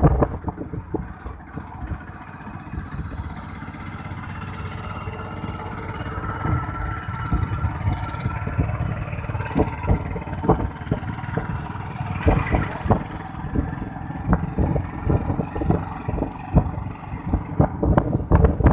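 Motorcycle engine running while riding, with wind buffeting the microphone and crackles.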